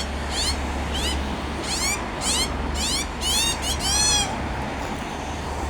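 A young bird begging: a rapid series of high, squealing calls that come faster and louder about three to four seconds in, then stop.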